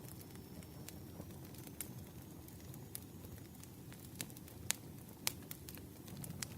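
Campfire crackling: a steady low rumble of burning wood with scattered sharp pops, two of them louder a little past the middle.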